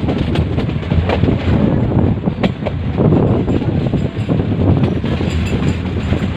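Metre-gauge passenger train running, a steady rumble of wheels on the rails with a few sharp knocks, and wind buffeting the microphone.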